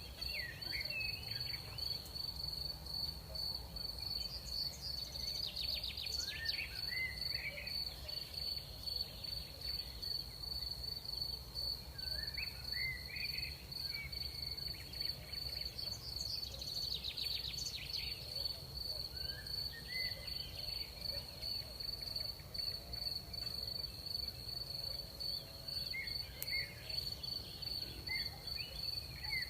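Crickets trilling in one steady, unbroken high note, with short chirping calls from another animal breaking in every few seconds over a low steady rumble.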